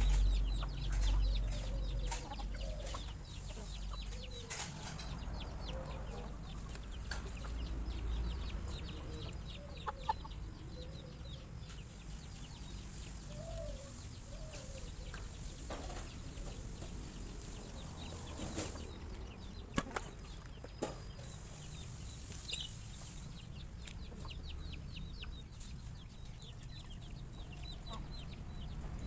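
A flock of chickens feeding, with many small ticks of pecking, a few soft clucks and several louder knocks. A low rumble is loudest in the first couple of seconds.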